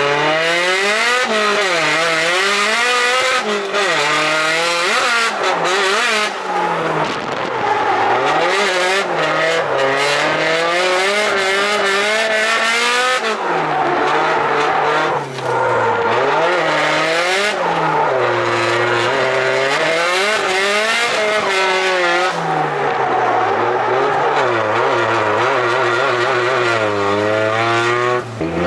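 Car engine revving hard and dropping again and again, every second or two, with tyre squeal: a car drifting on track.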